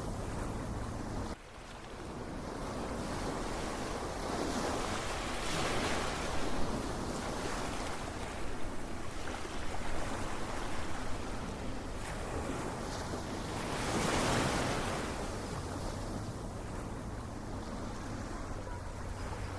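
Ocean surf: waves washing in as a steady rush, swelling into louder breakers about a third of the way in and again about three-quarters through. The sound dips suddenly about a second and a half in and builds back up.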